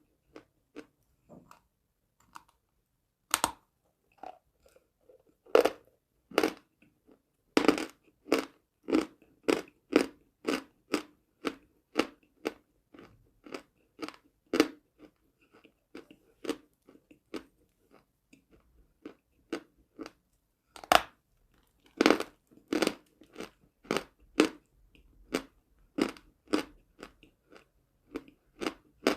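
Close-up crunching of edible chalk being bitten and chewed: a few sharp, crisp bites, then steady chewing crunches about twice a second.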